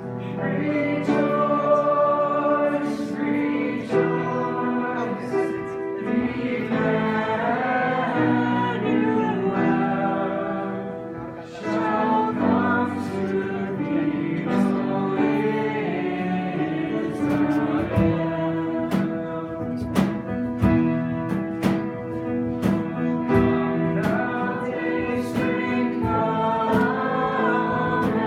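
Christian worship song: singing voices over sustained instrumental accompaniment, with a steady percussive beat coming in about two-thirds of the way through.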